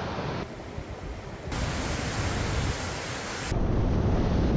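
Steady rushing noise, like wind or running water, that changes abruptly in loudness and tone three times as it is cut from one clip to the next.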